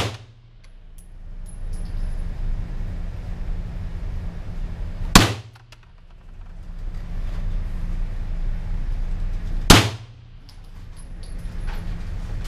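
Semi-automatic rifle fired in slow single shots: one right at the start, one about five seconds in and one near ten seconds, each a sharp crack with a short echo. Under them runs a steady low hum that dips after each shot and swells back.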